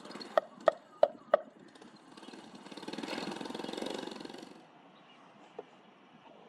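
Four sharp knocks in quick succession near the start, then a motor vehicle passing, its noise swelling and fading over about two seconds.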